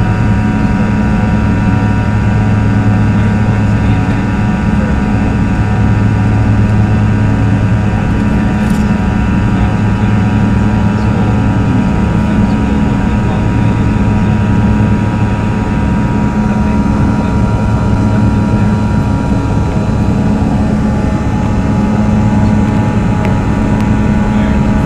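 Cabin sound of a Bombardier CRJ-200's two rear-mounted GE CF34 turbofan engines running steadily: a constant low drone with several thin, steady whining tones above it.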